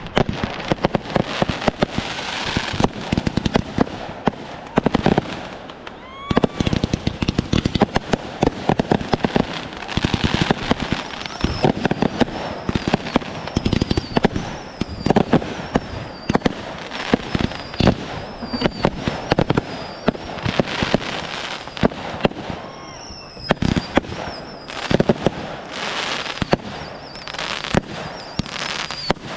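Fireworks going off: a dense run of bangs and crackling, with many short whistles mixed in from about a quarter of the way through.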